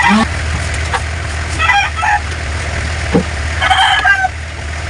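Chickens calling in two short bursts, about a second and a half in and again near the end, over a steady low hum.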